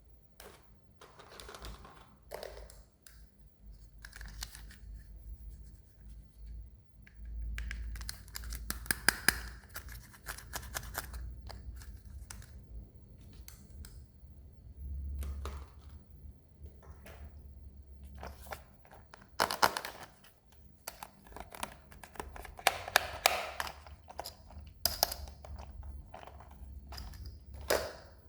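Toy packaging being handled and opened: plastic crinkling and tearing, broken up by taps and knocks, with a few louder crackling bursts.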